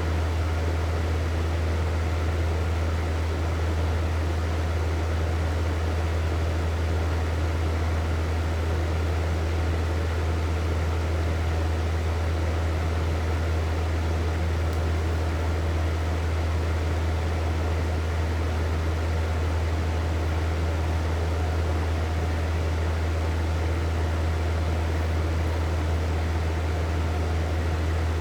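Hair dryer running steadily: an even rush of blowing air over a strong, constant low hum.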